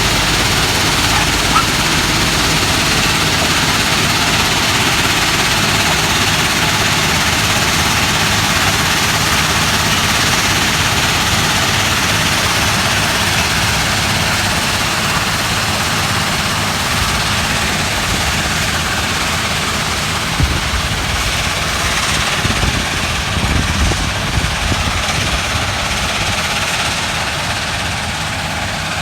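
Norfolk Southern ballast cleaner working: a loud, steady roar of heavy machinery over a low engine hum, with a few small knocks about two-thirds of the way in.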